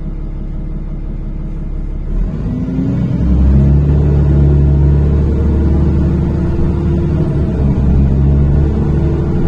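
NefAZ-5299 city bus engine heard from inside the cabin, running steadily at first. About two seconds in, the engine note rises and grows louder as the bus accelerates away.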